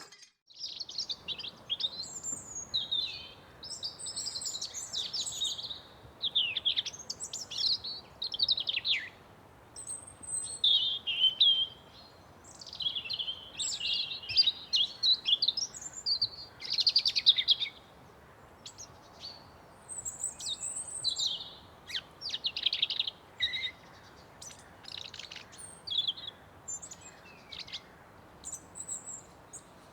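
Several songbirds singing and chirping in a forest, calls overlapping one another with short gaps between them, over a faint steady background hiss.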